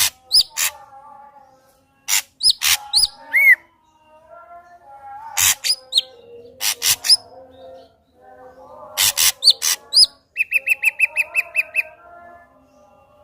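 Ashy drongo singing: short bursts of loud, sharp calls and high whistled notes with brief pauses between them, and a rapid trill of about a dozen notes near the end.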